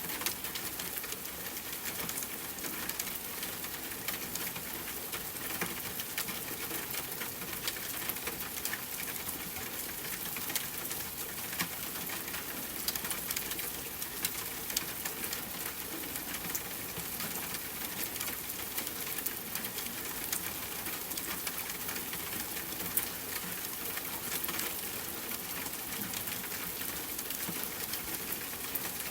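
Steady rain falling, an even hiss dotted with many small ticks and occasional sharper crackles from a campfire burning alongside.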